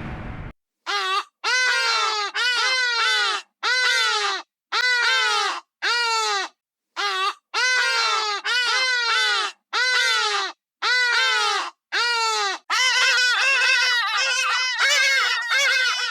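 A gull calling over and over: a long series of short cries, each falling in pitch, about one or two a second, crowding together near the end.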